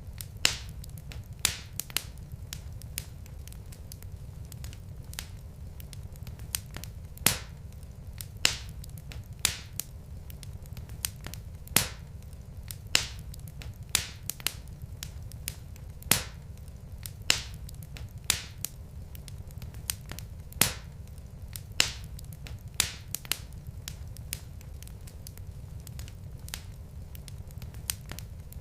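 Wood fire in a fireplace crackling, with sharp pops about once a second and fainter ticks between them over a low steady rumble.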